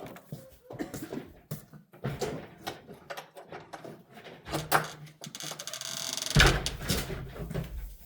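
Assorted knocks and clunks of buckets and gear being handled, with a louder stretch of scraping and rustling noise near the end.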